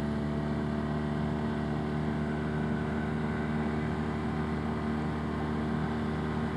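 Arctic Cat Wildcat Trail UTV engine running at a steady cruising speed, its pitch holding level.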